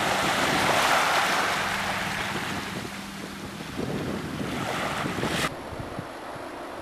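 Wind buffeting the microphone over the wash of sea waves. The noise swells in the first second, eases off, and drops suddenly about five and a half seconds in to a quieter hiss.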